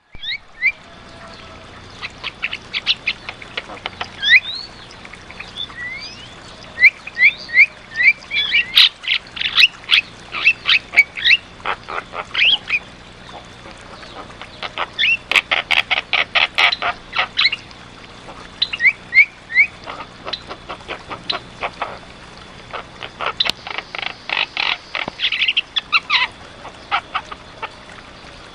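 Javan myna singing vigorously: bouts of rapid harsh chattering notes mixed with short rising whistles, broken by brief pauses.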